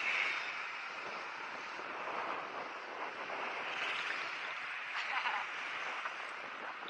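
Steady outdoor rushing noise, with faint distant voices around the middle.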